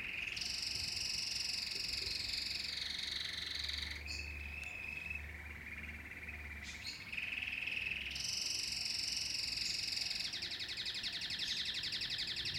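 Domestic canary singing a continuous run of high rolling trills that change phrase every few seconds, ending in a very fast, buzzy trill over the last couple of seconds.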